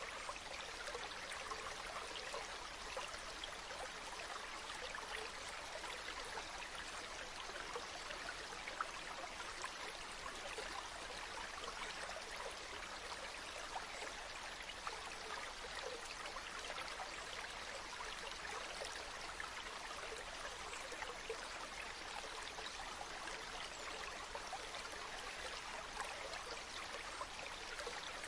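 Running water of a small stream or brook, flowing steadily with a fine trickling, splashing texture.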